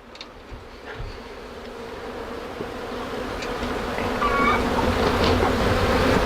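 Honey bees from an opened hive buzzing in a dense, steady hum that grows louder through the few seconds.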